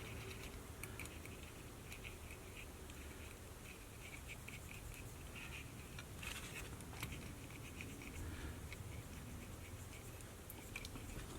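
Cotton swab scrubbing on a Sony Walkman WM-B18's cassette mechanism, a run of faint quick scratching strokes, cleaning off the remains of its disintegrated rubber belts.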